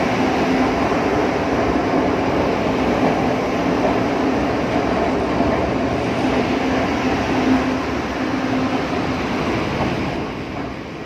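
Hyundai Rotem–Toshiba LRT Line 2 electric train pulling out of the station, with a steady hum and rumble of the moving cars. The sound fades about ten seconds in as the train moves away.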